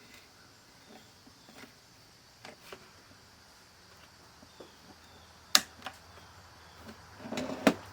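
Scattered light clicks and taps from handling a Micronta analog multimeter and its test leads, with a sharp click about five and a half seconds in and another, with a brief rustle, near the end.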